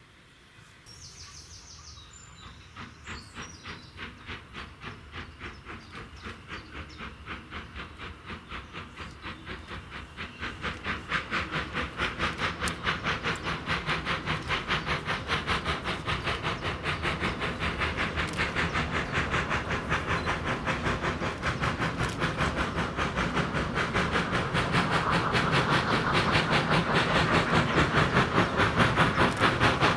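Steam locomotive working under steam, its exhaust chuffing in a steady rhythm of a few beats a second and growing louder as it approaches.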